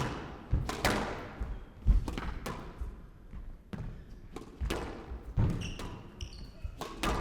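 Squash ball being struck by rackets and smacking off the court walls in a quick run of sharp hits, with a few short squeaks of court shoes on the floor.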